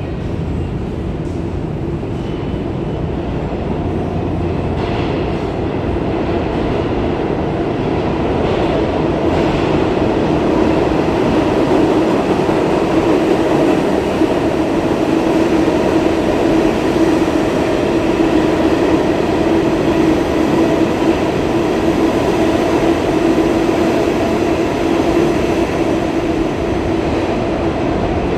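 A steady vehicle rumble with a humming tone, louder through the middle and easing near the end.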